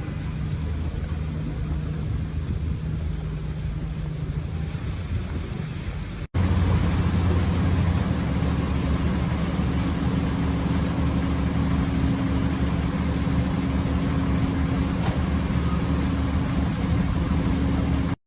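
A motor vehicle's engine running with a low steady hum under a constant rushing noise. The sound cuts about six seconds in to a second, louder clip with a similar engine hum and rushing noise.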